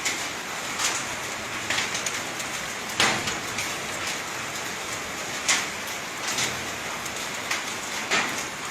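Steady rain laden with volcanic sand and ash, falling and pattering on surfaces. A louder sharp hit comes every second or two, the strongest about three seconds in.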